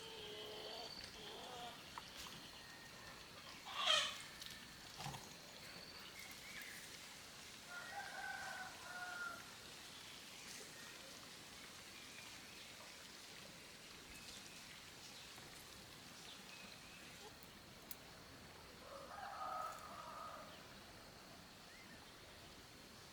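Rooster crowing faintly three times, each crow about a second and a half long: at the start, about eight seconds in, and about nineteen seconds in. A short, sharp sound about four seconds in is the loudest thing.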